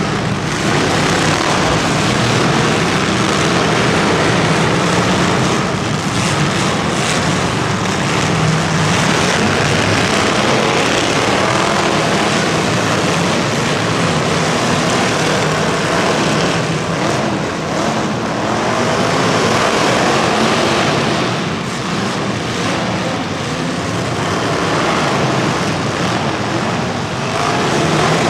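Loud, continuous buzzing of motors or engines running hard, with small rises and dips but no pause.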